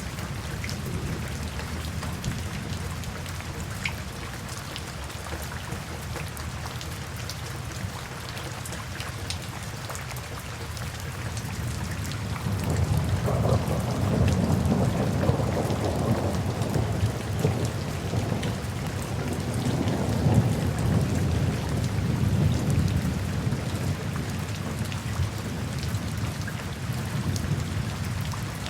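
Steady rain falling, with scattered drop ticks. About halfway through, a long, low rumble of thunder rolls in and slowly dies away.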